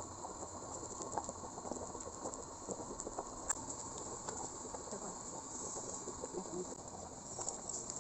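A steady high hiss, like insects chirping, with scattered small clicks and taps and one sharper click about three and a half seconds in.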